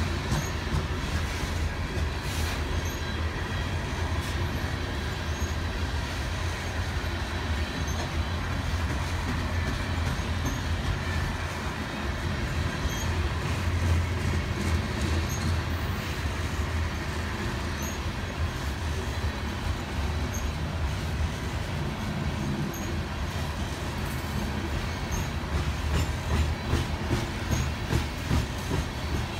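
Freight train of grain hopper cars rolling past, a steady rumble of steel wheels on the rails with faint regular ticks, turning to a rhythmic clatter near the end.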